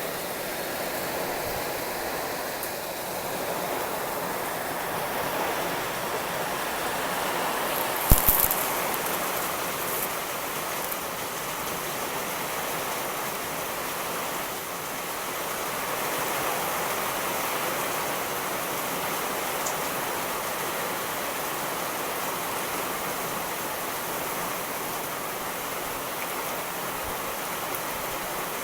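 Steady, heavy rain hissing evenly, with one brief sharp crack about eight seconds in and a few faint clicks just after.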